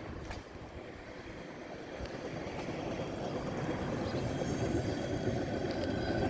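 Railroad hi-rail truck approaching on the track, a steady rumble growing steadily louder.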